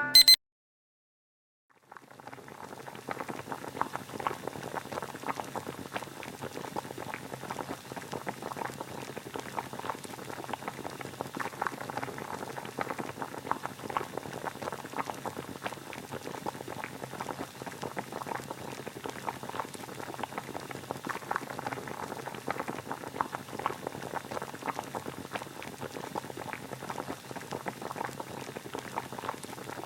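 Water boiling: a steady bubbling with dense, small popping ticks, starting about two seconds in after a moment of silence.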